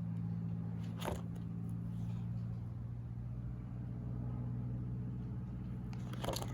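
A steady low mechanical hum, with a short sharp click about a second in and another near the end.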